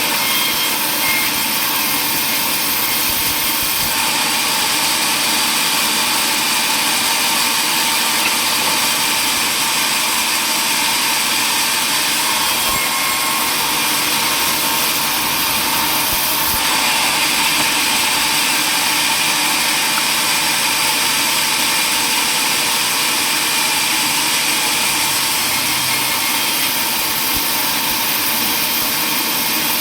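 Power saw running steadily at a sawmill, a loud, even machine noise without pauses that shifts slightly in tone twice.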